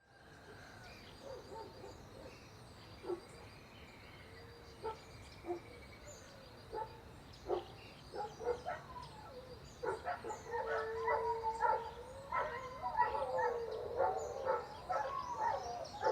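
Animal calls, pitched and gliding, mixed with sharp clicks over a faint steady high tone. The calls get denser and louder about ten seconds in.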